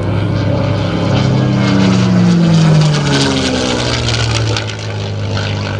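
North American P-51D Mustang's Packard Merlin V-12 engine as the fighter flies past. The engine note is loudest and then drops in pitch about three seconds in as the plane passes.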